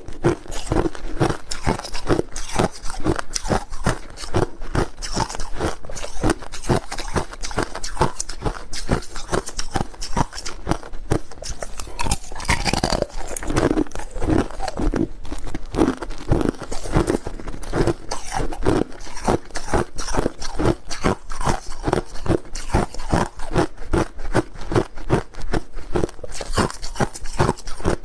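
A person chewing a mouthful of crushed ice, with a quick, continuous run of loud, sharp crunches.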